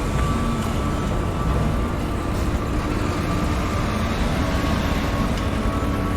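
Construction site ambience: heavy machinery engines running steadily, with a deep rumble and a faint steady whine above it.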